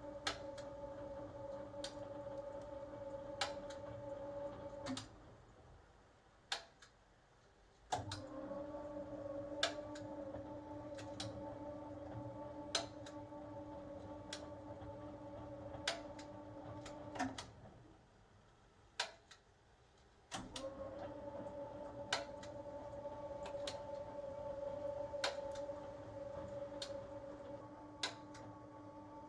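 1980 HUWA Automatic Standard 4 washing machine running: the motor hums steadily, stops for about three seconds, then starts again, twice over, with sharp clicks scattered throughout.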